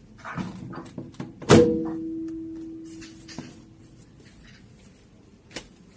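A hard thunk with a ringing tone that fades away over about two seconds, preceded by rustling and small knocks, with one more small knock near the end.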